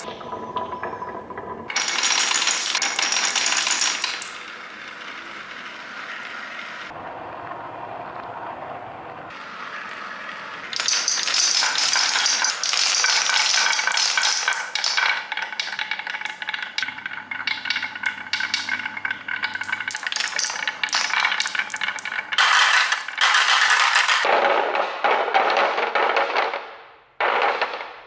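Small hard toy pieces rolling and clattering in dense rattling runs with a ringing edge: a loud stretch about two seconds in, a softer stretch, then a long loud run from about eleven seconds that dies away near the end.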